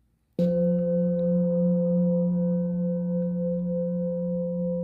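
Singing bowl struck once about half a second in, then ringing on in a low hum with a higher tone above it, slowly fading.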